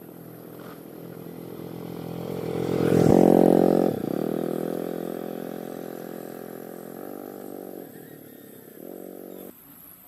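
A small engine running, growing louder to a peak about three seconds in, dropping in pitch at about four seconds, then slowly fading and cutting off near the end.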